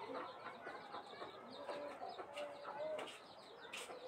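Background bird calls, with a couple of short sharp clicks near the end.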